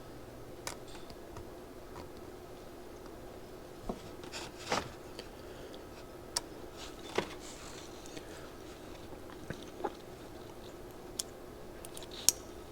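Scattered small clicks and taps of go-kart carburetor parts being handled and worked on, about eight of them, the sharpest near the end, over a faint steady hum.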